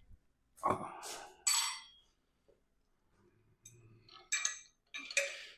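Small metal hardware clinking: a washer and bolt being handled and fitted, with a few bright ringing clinks about a second in and again near the end.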